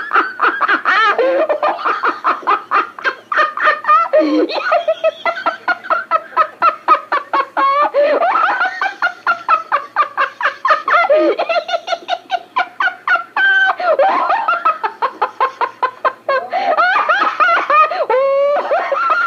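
A person laughing nonstop in long, rapid runs of ha-ha pulses, imitating a novelty laughing record. It is heard on old home tape played back slightly fast, so the voice sounds higher than it really was.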